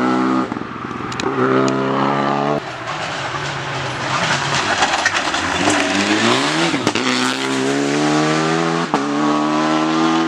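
Rally car engine at high revs, the pitch held flat, then dropping away about two and a half seconds in into a spell of rougher noise before climbing again around six seconds as it accelerates hard. Sharp pops break in at the changes.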